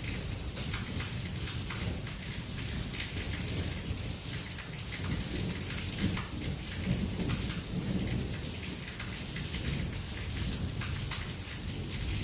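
Heavy rain pouring steadily in a thunderstorm, a dense hiss of drops hitting surfaces, with a continuous low rumble underneath.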